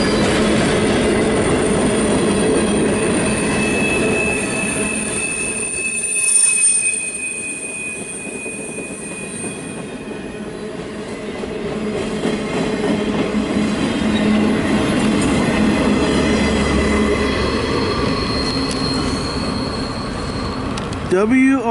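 Train rolling past with its wheels squealing on the rails in long, steady high-pitched tones over continuous rolling noise. It eases off somewhat in the middle and then builds again.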